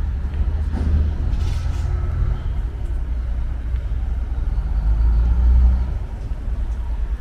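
Low, steady rumble of a ferry's engines.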